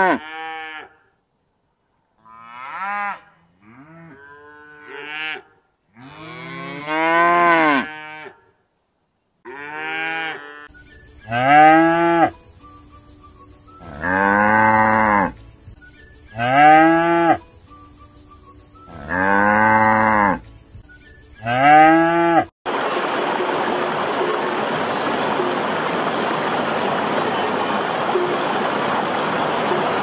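Cattle mooing, about ten separate long calls that each rise and fall in pitch, with short pauses between them. About three-quarters of the way through, the mooing cuts off abruptly and steady rushing water from a shallow rocky stream takes over.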